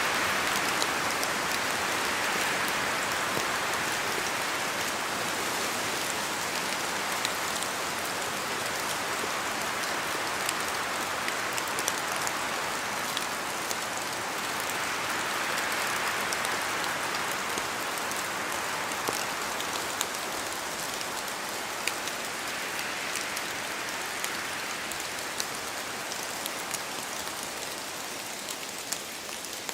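Steady rain falling in a forest, a continuous hiss dotted with the sharp ticks of single drops falling from the trees. The hiss swells and eases a few times as the wind gusts.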